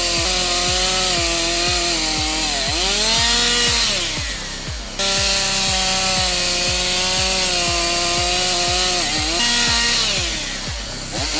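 Chainsaw running at full throttle and cutting wood. Its pitch sags as the chain bites into the wood, about two and a half seconds in and again near the end, then climbs back up.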